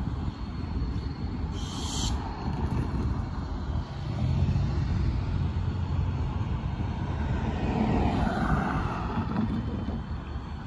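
Low, steady rumble of an approaching diesel freight train mixed with road traffic, growing louder about four seconds in. A car passes over the grade crossing about eight to nine seconds in.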